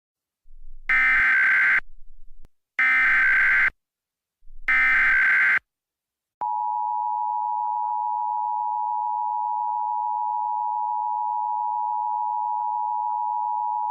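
Emergency Alert System header: three roughly one-second bursts of SAME digital data tones, a harsh electronic screech. About six seconds in, the EAS two-tone attention signal begins, a steady piercing dual tone that marks the start of a new emergency alert.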